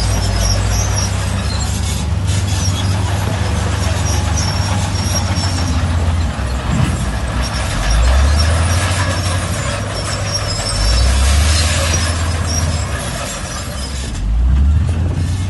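Shantui crawler bulldozer's diesel engine working under load, its revs rising three times, with short high metallic squeaks from the tracks.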